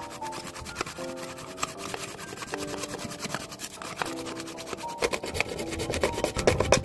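Rapid, repeated rasping strokes on wood, growing louder after about five seconds, over background music with sustained notes.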